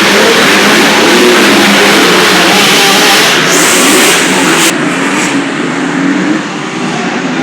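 Motocross bike engines running hard and revving loudly during a race, the high hiss thinning and the level falling somewhat about five seconds in.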